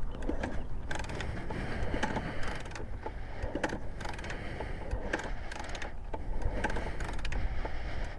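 Kickstart lever of a 1982 Honda XL500R being eased down slowly to find top dead center, the kickstart ratchet and gears clicking irregularly as the piston is brought up on compression.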